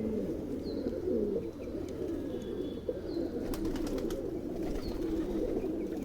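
A flock of Punjabi dobaaz pigeons cooing, many low coos overlapping without a break, with a few sharp clicks about three and a half seconds in.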